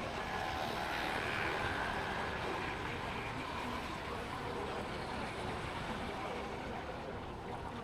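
Motorbike riding in city traffic: engines running steadily, with wind noise on the microphone.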